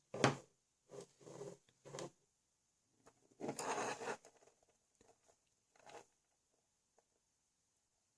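Small plastic parts being handled: a few short scrapes and rubbing noises, the longest lasting under a second, about halfway through.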